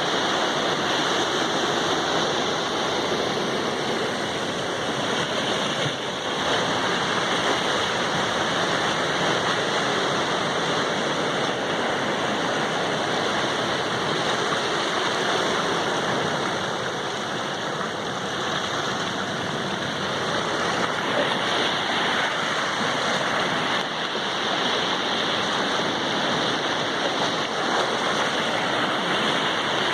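Sea surf, a continuous rushing of waves that swells and eases only slightly.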